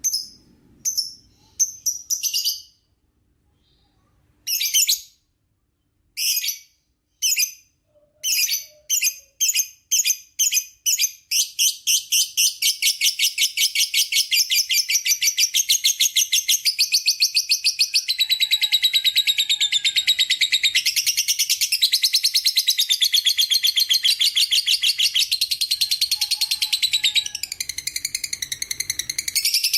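Lovebird ngekek: separate high, sharp chirps that come faster and faster after a short pause, then merge into a long, unbroken, rapid chattering trill. This is the long 'ngekek panjang' chatter that keepers prize.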